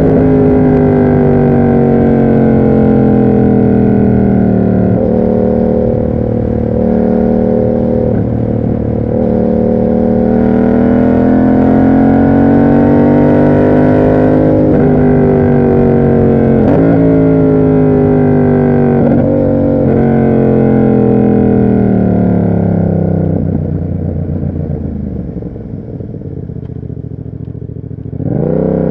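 Yamaha MT-07's parallel-twin engine through an SC Project aftermarket exhaust under way, its note rising and falling with the throttle and breaking briefly several times. Near the end it winds down to a lower, quieter note, then revs sharply up again.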